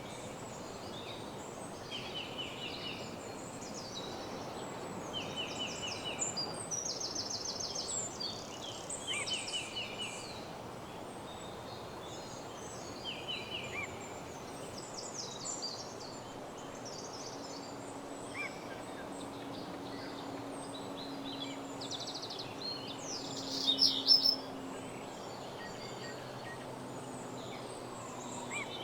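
Several birds singing at once in woodland, with rapid trills and chirps over a steady background hiss and one louder call about 24 seconds in.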